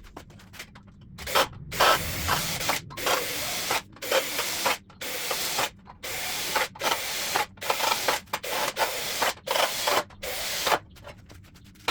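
MIG welder laying short stitch or plug welds on car body sheet metal: well over a dozen crackling bursts, each under a second, with brief pauses between them.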